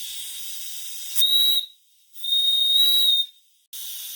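Steam whistle of a coal-fired gauge G live-steam model locomotive (DR 99 6001-4, built by Walter Kolb), blown twice: a short high blast, then a longer one. A steady hiss of steam runs underneath.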